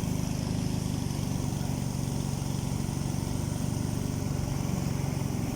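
Engine of a setenteng, a small motorised river boat, running steadily at a constant speed with a fast, even chugging.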